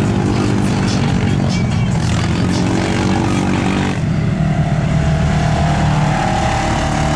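Off-road vehicle engine running at steady revs, its note changing about four seconds in, with music playing in the background.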